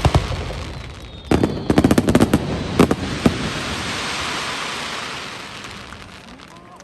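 Aerial fireworks going off: a quick cluster of sharp bangs and crackles about a second in, then a crackling hiss that dies away.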